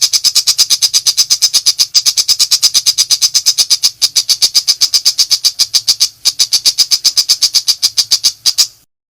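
A pentet macan shrike giving its rapid, harsh chattering call, about ten notes a second. The call comes in runs broken by three short pauses, at about two, four and six seconds in, and cuts off sharply near the end.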